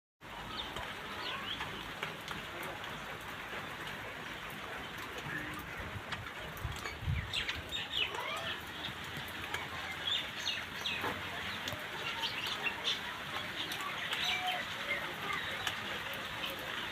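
Birds chirping and calling in many short notes, over a steady background hiss, with a dull low thump about seven seconds in.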